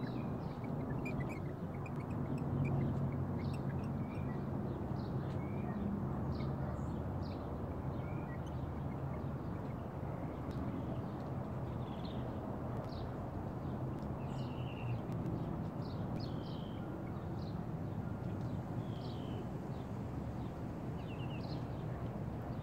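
Small birds chirping, short high calls scattered irregularly, over a steady low rumble of outdoor background noise.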